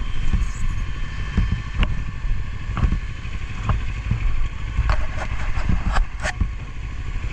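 Motorcycle engine running, with a steady low rumble of wind on the microphone and a few short clicks.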